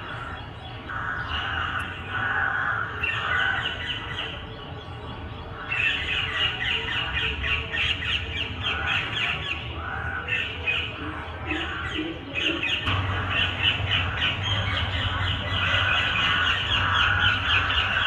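A parrot and a crow squawking at each other in rapid, harsh, overlapping calls as they fight. The calls grow louder and denser about six seconds in.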